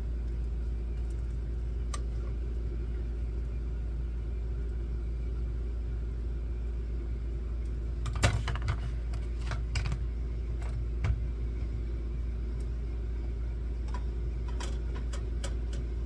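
A steady low hum runs throughout. A few light clinks and taps of kitchen utensils come about eight to eleven seconds in and again near the end, as a tortilla is being filled.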